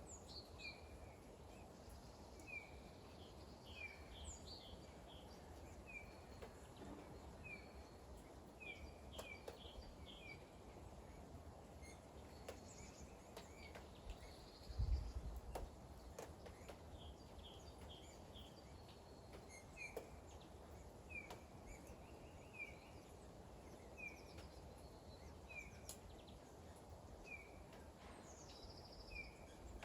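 A small bird repeating a short, high chirp about once a second, faint over a steady low hiss of light rain, with a brief low rumble about halfway.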